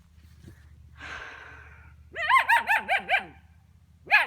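A 10-week-old German Shepherd puppy barking in a quick run of about six high, yappy barks about two seconds in, then once or twice more near the end. These are fearful barks at a ball the puppy is afraid of.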